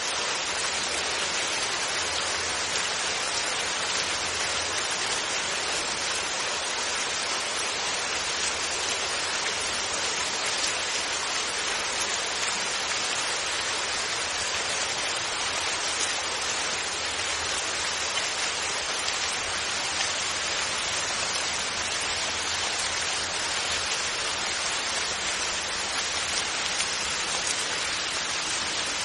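Steady rain falling without thunder, an even hiss that holds at the same level throughout.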